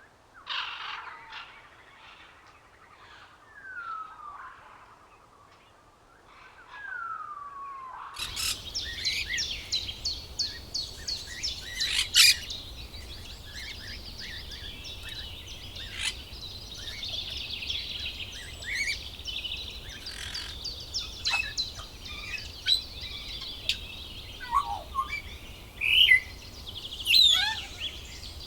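Birds calling: a few scattered calls with downward-sliding notes, then about eight seconds in a sudden switch to a dense chorus of high chirps and trills over a steady low hum.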